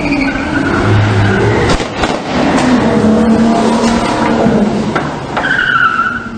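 Car engine revving hard with tyres squealing and skidding, the high squeal strongest near the start and again near the end.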